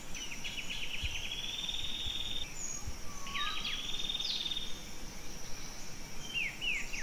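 Wild birds calling: repeated buzzy trills lasting about a second and a half each, with short high chirps and quick whistled notes sweeping down and up between them.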